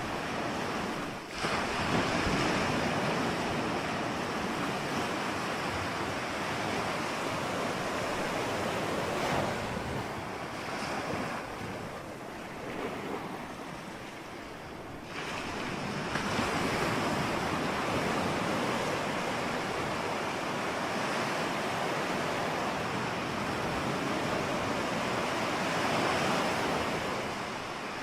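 Ocean surf: waves breaking and washing in as a continuous rush, easing off for a few seconds around the middle before a new wave surges in.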